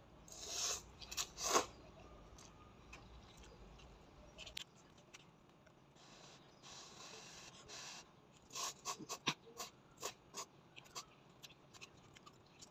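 Close-up eating of instant noodles: two short slurps near the start, then, later on, a quick run of sharp, wet mouth clicks from chewing.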